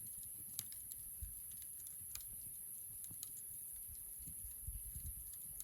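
Wood campfire crackling: irregular sharp pops and snaps of burning wood, a few a second at most, over a steady high-pitched hiss.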